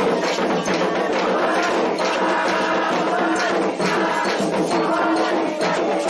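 Candomblé ritual music: hand drums and rattling percussion in a fast, steady rhythm under group chanting.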